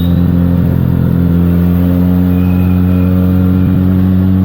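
Benelli TNT 300's parallel-twin engine running through its stock exhaust at steady revs.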